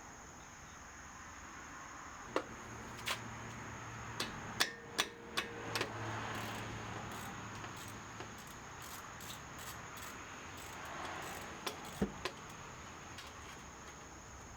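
Irregular sharp metallic clicks and knocks of hand tools and parts, several in quick succession and a couple more later, some ringing briefly. A steady high-pitched whine runs underneath.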